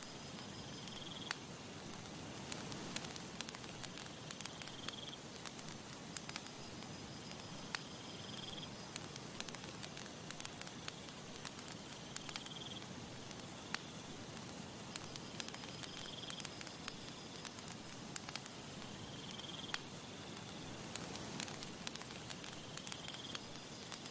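Campfire crackling with frequent sharp pops over a soft steady hiss of breeze. A short high note repeats about every four seconds, and near the end a high insect trill joins in.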